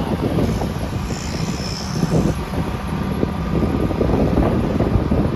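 A moving motorcycle heard from the rider's microphone: wind buffeting the mic over the steady rumble of the engine and road.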